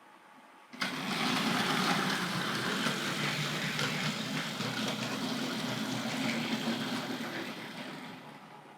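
Hornby Dublo GWR 0-6-2 tank locomotive's electric motor, with its replacement armature, running on three-rail track with the body off. It gives a steady hum with a mechanical whirr, starting about a second in and fading away near the end. The motor runs smoothly: the new armature is doing the job nicely.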